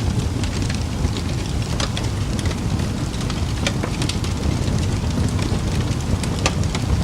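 Wood fire burning in a fireplace: a steady low rumble of flames with frequent sharp crackles and pops scattered throughout, one of the loudest about six and a half seconds in.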